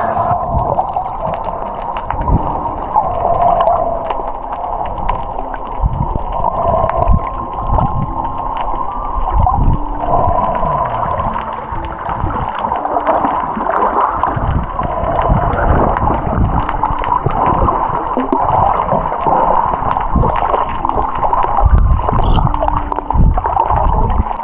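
Muffled underwater sea noise with gurgling and repeated low bumps, under a steady hum.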